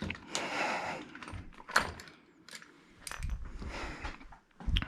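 Clinks, rattles and scrapes of metal hand tools and parts being handled, with scattered sharp clicks, the loudest about a second and three-quarters in.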